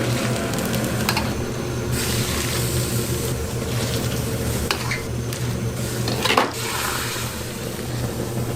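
Egg fried rice sizzling in a pan as it is stirred, with a few sharp clinks of a metal utensil against the pan; the loudest comes about six seconds in. A steady low hum runs underneath.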